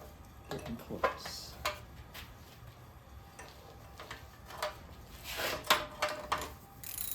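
Scattered metallic clinks and knocks of hand tools and engine parts being handled, with a denser run of clicks from about five and a half to six and a half seconds in.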